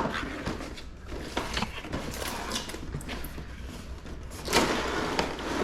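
Cardboard box being opened and its contents handled: scraping and rustling of cardboard, with a louder scrape about four and a half seconds in.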